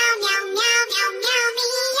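Background song with a high, childlike synthetic singing voice over music.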